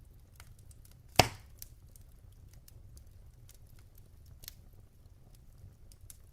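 Logs burning in a fireplace: scattered small crackles over a faint low rumble, with one loud, sharp pop about a second in and a smaller one later.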